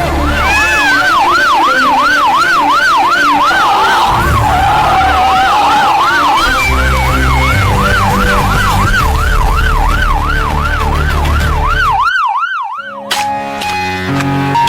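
Siren sounding in a fast rising-and-falling yelp, about two and a half sweeps a second, over background music; it cuts off about twelve seconds in and the music carries on alone.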